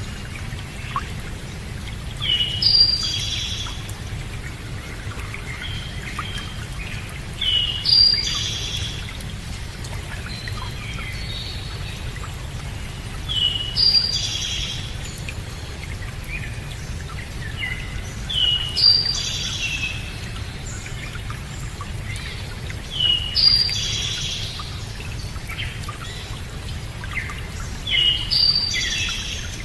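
A songbird repeating the same short, high phrase about every five seconds, six times, over a steady low rushing noise.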